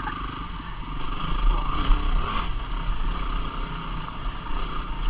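Single-cylinder 250 cc dual-sport motorcycle engine running steadily.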